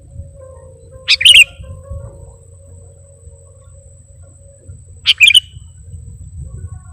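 Sooty-headed bulbul (kutilang) calling: two short bubbly phrases about four seconds apart, over a faint low rumble.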